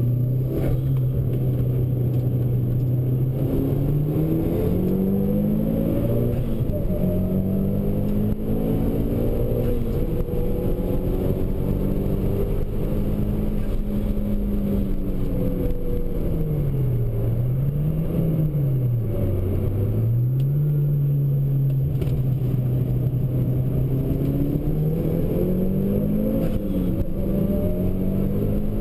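Mitsubishi Lancer Evo V's turbocharged 2.0-litre four-cylinder engine under hard track driving, heard from inside the cabin with road noise. The engine note holds steady at first, climbs a few seconds in, then drops and recovers twice in quick succession around the middle at gear changes before rising again near the end.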